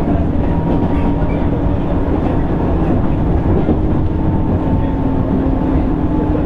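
Running noise inside the motor car of a JR East 205 series 600-subseries electric train: a steady rumble of wheels on rail with a steady traction motor and gear whine whose pitch eases slightly lower as it goes.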